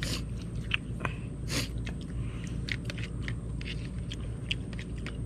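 A person chewing and eating close to the microphone: many small wet clicks, with two short louder rustling scrapes about a second and a half apart.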